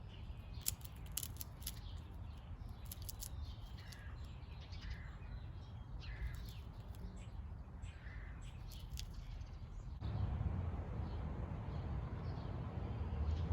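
Outdoor ambience: short bird calls about once a second, with clusters of sharp clicks in the first half. About ten seconds in, a low rumble of passing traffic rises.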